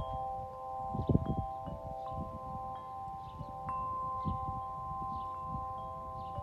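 Wind chimes ringing, several metal tones sounding together and struck afresh every second or so, with wind rumbling on the microphone, strongest about a second in.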